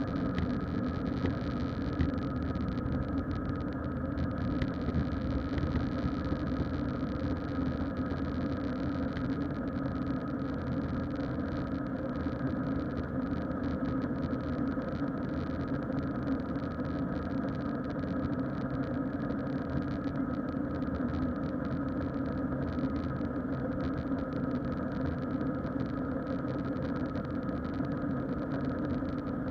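Steady engine and cabin noise inside an Airbus A321 with IAE V2500 turbofan engines, an even drone with steady humming tones.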